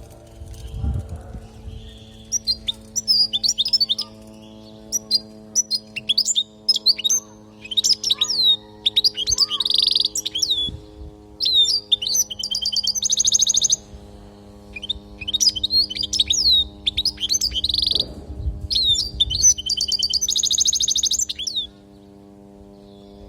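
European goldfinch singing a long, fast song of twittering chirps, sharp falling notes and buzzy trills, which stops about 21 seconds in. A steady low hum runs underneath.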